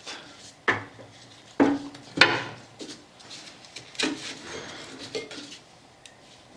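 Hard metal parts clinking and clattering as a motorcycle brake caliper and hand tools are handled on a workbench: several sharp knocks, the loudest about two seconds in, with quieter rattling between.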